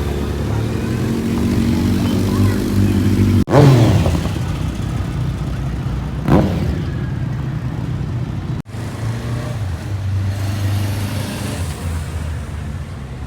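Motorcycle engines running, with two loud moments about three and a half and six seconds in where an engine note climbs to a peak and then drops quickly in pitch.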